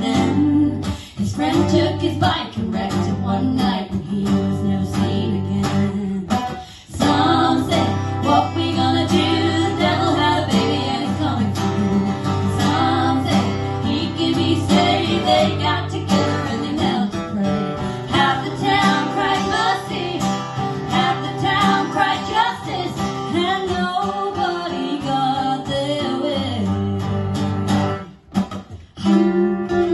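Live music: a strummed acoustic guitar under female singing. The music drops out briefly near the end.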